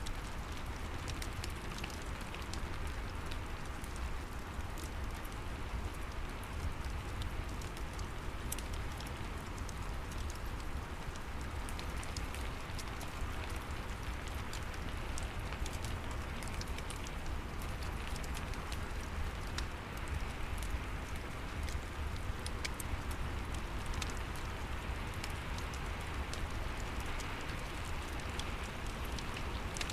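Steady rain with a fireplace crackling: an even hiss with frequent small, sharp crackles and pops scattered through it.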